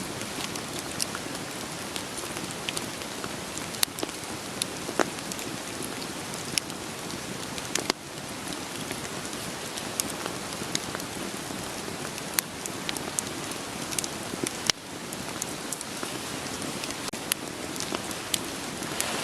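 Steady rain falling, mixed with a wood fire crackling: scattered sharp pops and snaps of burning firewood over an even hiss.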